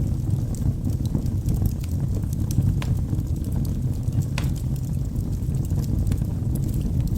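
Wood fire burning in a fireplace: a steady low rumble with scattered, irregular sharp crackles and pops from the burning logs.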